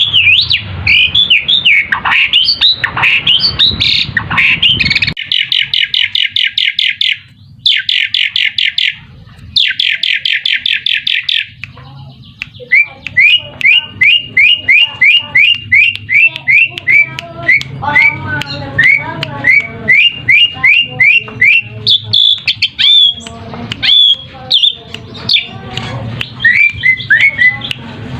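Asian pied starling (jalak suren) calling: several bursts of very rapid chattering notes, then a long series of short rising whistles at about three a second.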